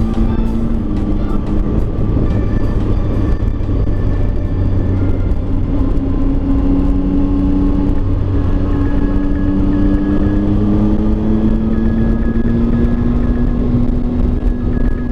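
Motorcycle engine running at road speed under heavy wind rush, its note dropping about a second in and then climbing slowly as the bike gathers speed.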